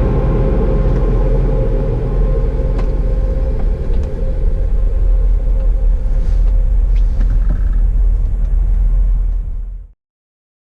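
Car wash tunnel dryer blowers running: a loud steady rumble with a steady whine that fades out about six seconds in. The sound stops abruptly near the end.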